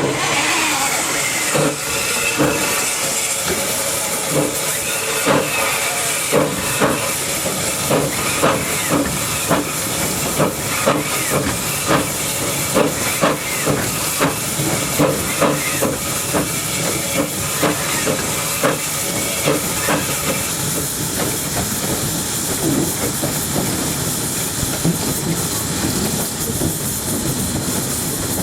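Narrow-gauge steam locomotive hissing steam, with regular exhaust chuffs about one and a half a second as it runs. The chuffs fade after about twenty seconds, leaving the steam hiss and running noise.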